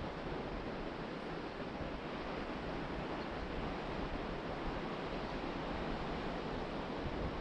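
Ocean surf washing onto the beach in a steady, even rush, mixed with wind buffeting the microphone in low, uneven rumbles.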